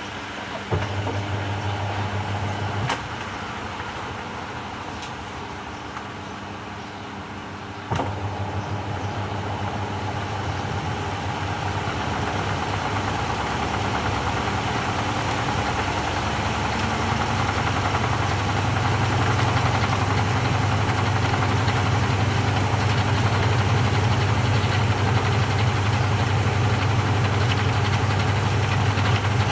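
Samsung 6.5 kg top-loading washing machine's motor running: a low hum starts about a second in and stops after two seconds. It comes back about eight seconds in and grows gradually louder before settling into a steady run.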